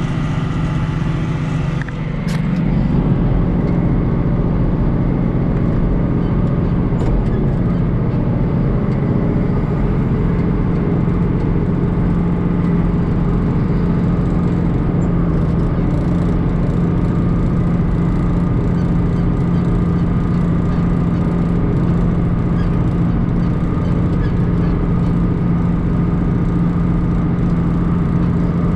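John Deere 2940 tractor's diesel engine running steadily under load while pulling a rotary hay rake. About two seconds in the sound dips briefly with a click, then carries on a little louder and steady.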